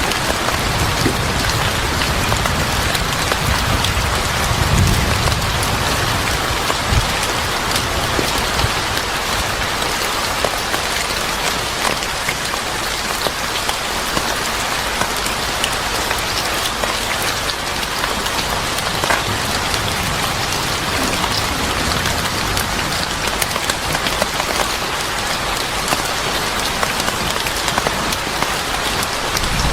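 Steady heavy rain falling on a surface, a dense even hiss full of close drop spatters. A low rumble underlies the first several seconds and fades away.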